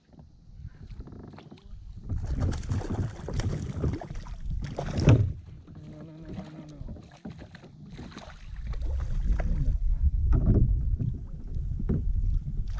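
Knocks and handling noise on a fishing kayak, over a low rumble of wind on the action-camera microphone, with one sharper knock about five seconds in.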